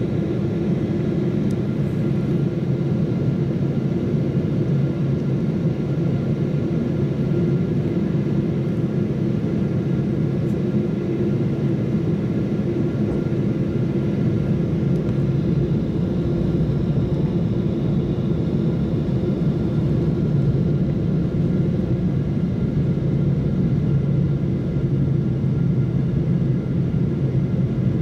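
Jet airliner in flight on approach, heard from inside the cabin: a steady drone of engine and airflow noise with a few constant hum tones.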